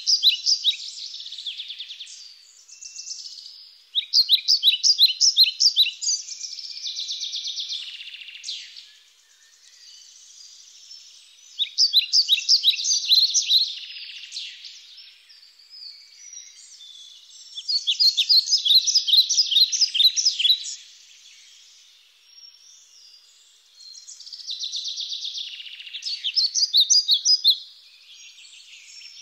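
Songbird singing: a phrase of rapid, high chirped notes lasting about two seconds, repeated every five to seven seconds, each followed by a softer hazy trill.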